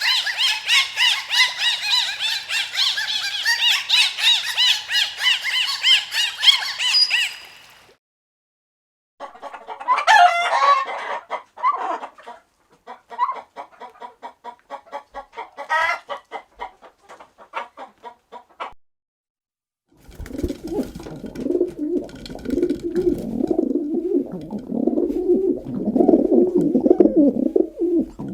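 Animal calls in three stretches with short breaks between them: a dense chorus of high bird chirps for about eight seconds, then a run of quick calls with sliding notes, then lower repeated calls over the last eight seconds.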